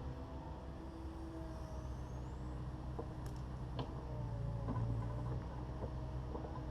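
Takeuchi TB260 excavator's diesel engine running steadily with its machine hum, pulling harder briefly past the middle. A couple of sharp clicks or knocks are heard about halfway through.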